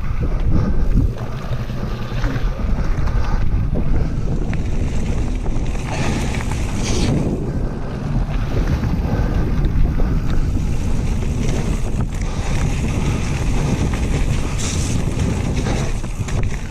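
Wind buffeting the microphone of a camera riding along on a moving mountain bike, a steady low rumble with a few faint knocks from the trail.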